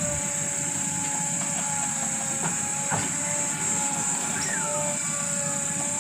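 Heavy diesel machinery running steadily, with a steady whine over a low rumble and a constant high hiss, and a couple of sharp knocks about two and a half and three seconds in.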